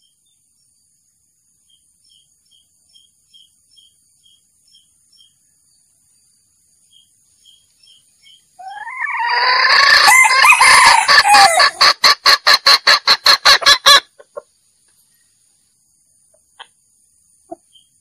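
A male junglefowl crowing, with a loud rising call that is held for a few seconds and then breaks into a quick run of about a dozen evenly spaced pulses. The run stops abruptly. Faint short chirps come before it.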